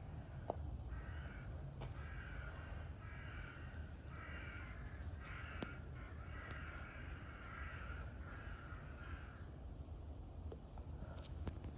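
A crow cawing in a run of about eight harsh caws, over a low steady rumble.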